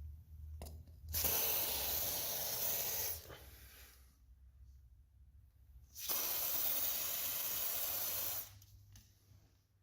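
Aerosol can of garage door lubricant spraying through its nozzle straw: two hisses of about two seconds each, with a pause between.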